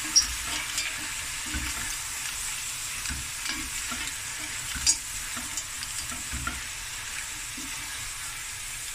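Seafood mix with mussels in their shells sizzling in a stainless steel pot while a wooden spoon stirs and scrapes through it. A steady frying hiss runs under irregular knocks, the sharpest just after the start and about five seconds in.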